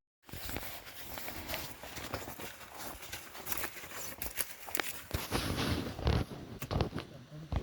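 Irregular rustling and crackling with many small clicks, like movement through brush or dry leaves.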